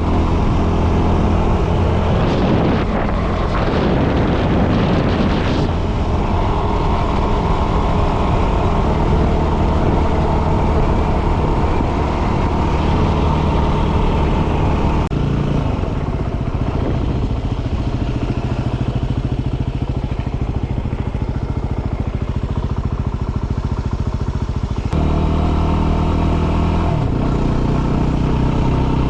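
Dual-sport motorcycle engine running while riding, its engine note changing at several points, over a steady rush of noise.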